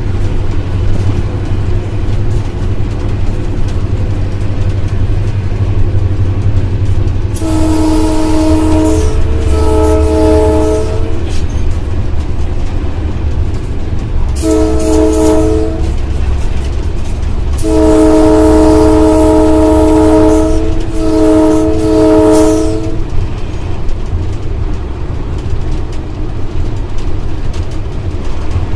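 GMU-30 diesel locomotive's multi-tone air horn sounding five blasts: two in quick succession, a shorter one, then a long blast followed by another. Under it runs the steady low rumble of the locomotive, heard from inside the cab.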